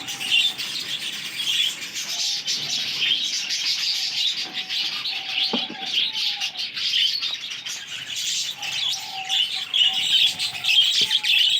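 A budgerigar colony chattering and chirping without a break, many birds at once, with scattered short clicks.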